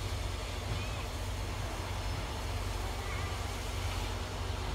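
A train moving slowly through a rail yard, heard as a low steady rumble, with wind rumbling on the microphone.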